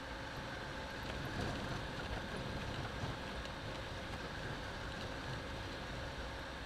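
Steady cabin noise of a Lada Niva (VAZ-2121) on the move: low engine and road rumble with a faint, steady whine over it.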